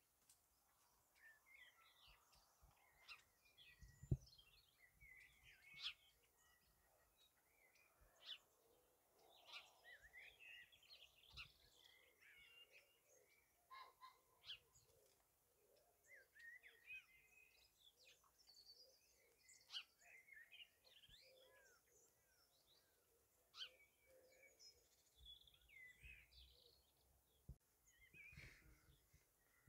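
Faint birdsong, with many short chirps and warbling phrases throughout. An occasional soft knock is heard, the loudest about four seconds in.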